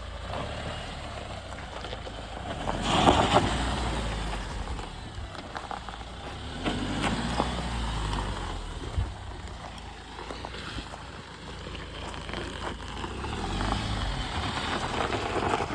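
A motor vehicle running over rough ground: a steady low engine and tyre rumble with scattered knocks and rattles, swelling loudest about three seconds in.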